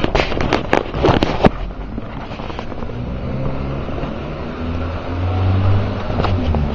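Car engine running, heard from inside the cabin, its hum growing stronger after about four and a half seconds. A cluster of sharp knocks or rattles comes in the first second and a half.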